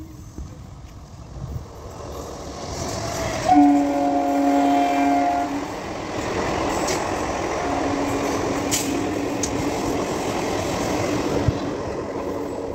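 Electric multiple-unit (EMU) local train approaching at speed and sounding one horn blast of about two seconds. It then rushes past with a steady rumble and rattle of wheels and coaches, and a fainter steady tone runs under the noise from about eight seconds in.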